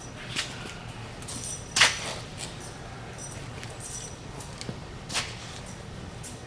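Hand tools clinking and clattering as they are rummaged through, in scattered sharp knocks, the loudest about two seconds in and another near the end, over a low steady hum.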